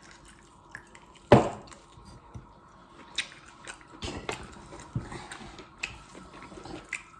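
Close-up eating sounds: chewing with wet mouth clicks and smacks, and one sharp loud knock about a second and a half in.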